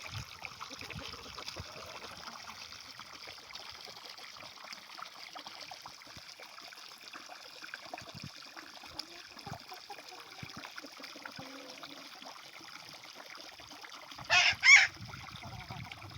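Water trickling steadily, with scattered small clicks. About fourteen seconds in, a fowl gives two short, loud calls in quick succession.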